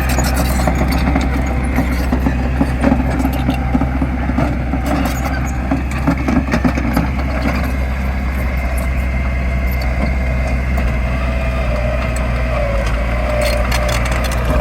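Diesel engine of heavy earthmoving machinery running steadily, with scattered clanks and knocks over it.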